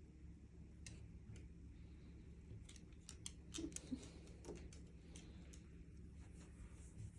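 Near-silent room tone with a cluster of faint, quick clicks and ticks a little before the middle.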